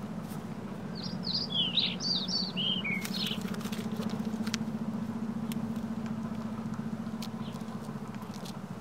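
A songbird sings a quick run of short, falling chirps about a second in, over a steady low hum. A few brief soft rustles are heard.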